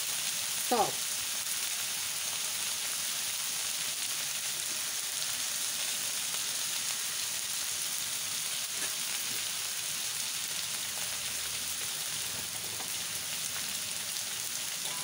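Noodles frying in a hot wok with sauces just poured over them: a steady, even sizzle.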